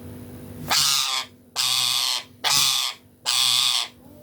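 Ringneck parrot giving harsh, raspy calls, four in a row about once a second, each lasting about half a second.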